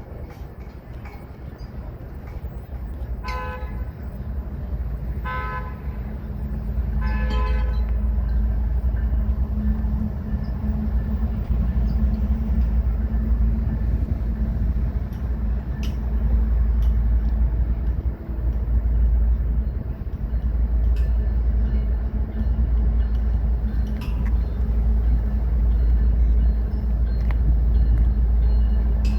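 Train horn sounding three short blasts about two seconds apart, then the heavy low rumble of the train growing louder and running steadily as it rolls by.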